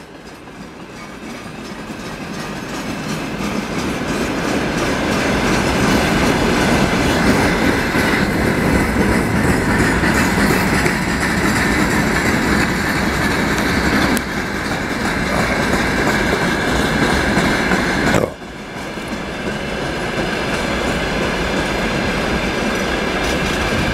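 A Russian Railways freight train of flatcars, gondolas and hopper cars rolling past close by. The noise of its wheels on the rails grows louder over the first few seconds and then holds steady, with a steady high tone above it. It drops suddenly about eighteen seconds in, then builds again.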